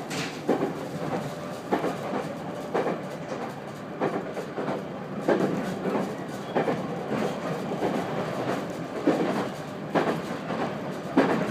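A JR 213 series electric train rolling slowly into a station, heard from inside the carriage: a steady rumble with irregular wheel knocks over the rail joints, roughly one a second, as it brakes toward a stop.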